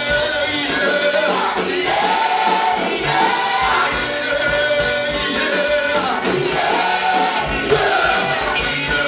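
A choir singing a gospel praise song with musical accompaniment, several voices holding long notes together.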